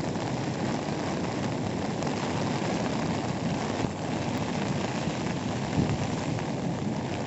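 Waterfall: the steady, deep rush of falling water.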